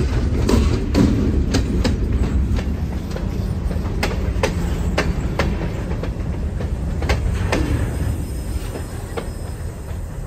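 Canadian Pacific freight train rolling past close by: a diesel locomotive moves off and covered hopper cars go by with a low rumble and sharp clicks of wheels over the rail joints. The sound eases off as the last car passes near the end.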